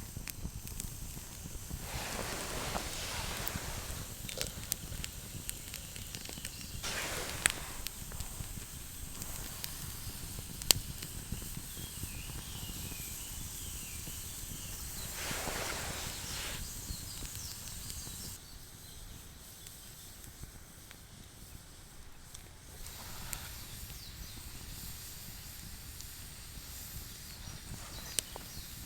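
Wood fire crackling with a steady hiss and scattered sharp pops.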